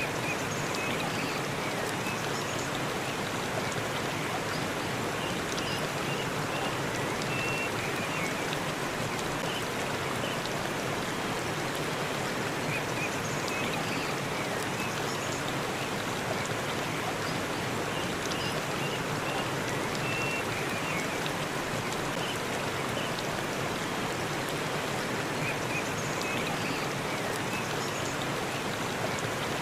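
Forest waterfall: a steady, even rush of falling water, with faint short high chirps now and then.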